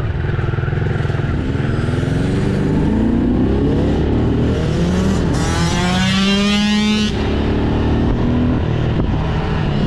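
Dirt bike engines running under hard acceleration, their pitch climbing steadily. About five seconds in, a second, higher-pitched engine whine comes in loud for about two seconds and then cuts off abruptly.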